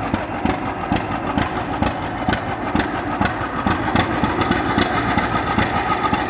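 John Deere A tractor's two-cylinder engine idling with a steady, even beat of exhaust pops.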